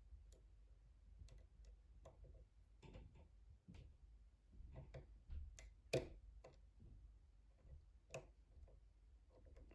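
Faint, irregular small clicks and ticks of a deep hook pick working inside a pin-tumbler lock as it lifts one pin higher; two sharper clicks come about six and eight seconds in.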